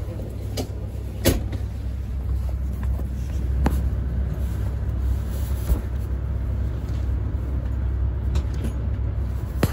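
Cabin noise aboard an E6-series Shinkansen train: a steady low rumble with a few sharp knocks, the loudest about a second in and another near the end.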